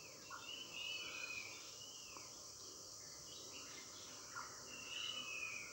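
Faint bird calls in the background: a few drawn-out calls that fall slightly in pitch, about a second in and again near the end, over a low steady hiss.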